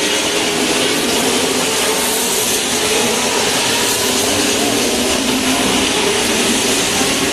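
Racing car engines running on the circuit, heard from the grandstand as a steady blend of several engine notes over a constant hiss, with no single car passing close.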